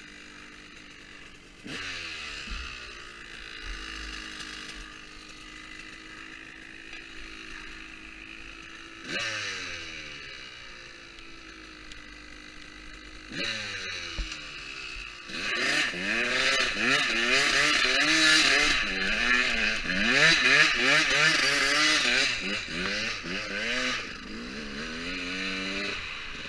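Motocross bike engine under hard riding, with sudden throttle surges a few times. For the last third it rises and falls rapidly and loudly as the rider works the throttle and gears.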